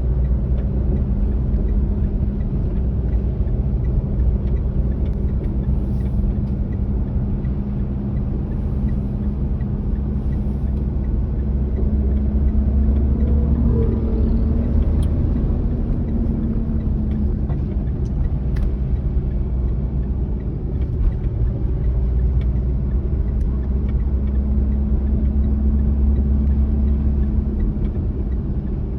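Manual-transmission car's engine running steadily as a low hum, with a brief shift in pitch about halfway through.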